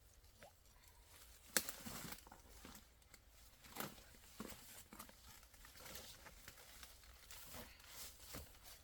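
Faint, irregular rustling with scattered small knocks and clicks, the sharpest about one and a half seconds in.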